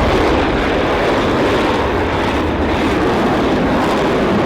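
Loud, steady noise of a fighter jet's engines.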